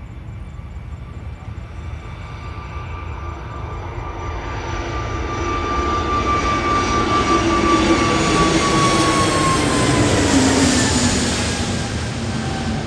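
Airbus A320neo jet taking off and passing by at take-off power. The engine noise and a steady whine grow louder, are loudest about two-thirds of the way in, then the whine drops in pitch as the jet goes past and the sound starts to fade.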